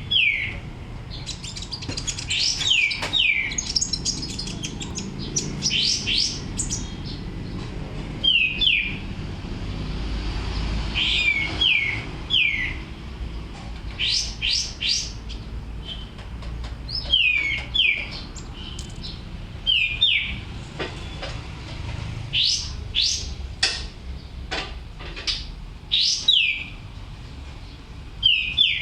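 A songbird singing in short phrases of quick downward-sliding whistled notes, often two or three together, repeated every second or two, with sharp high upward-sweeping notes between them. A low rumble runs underneath.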